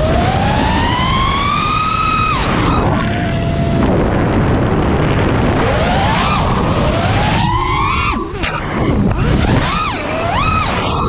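Brushless motors of a 5-inch FPV quadcopter whining, the pitch sliding up and falling back again and again as the throttle changes, over a heavy rumble of wind.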